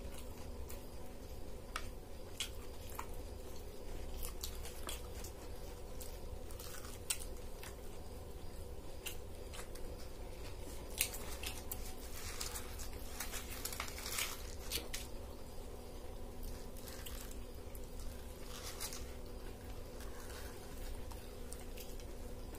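Close-up eating sounds: biting and chewing on egg rolls, with scattered small clicks and paper wrappers crinkling as they are peeled back, busiest about halfway through. A steady low hum runs underneath.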